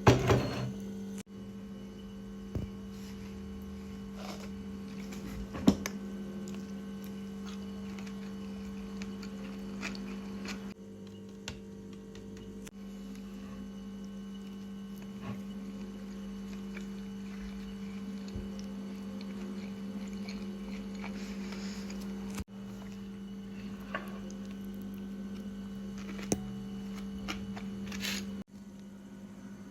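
A steady low hum with two pitches, with scattered faint clicks and taps over it. There is a sharp click at the very start and another about six seconds in.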